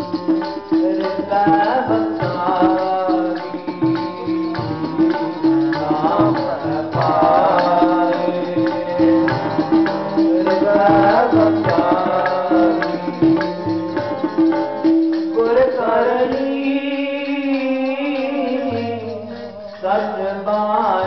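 Sikh kirtan: a singer chanting gurbani over a held harmonium drone, with tabla strokes. About fifteen seconds in, the held drone note drops out and the melody moves on.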